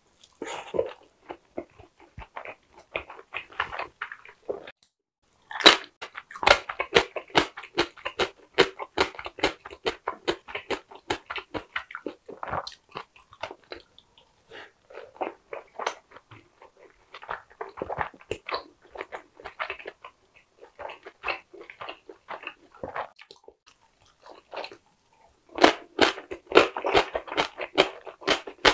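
Close-miked chewing of a soft, juicy steamed Korean king dumpling (wang mandu): wet smacking and squelching mouth clicks. They come in runs broken by short pauses.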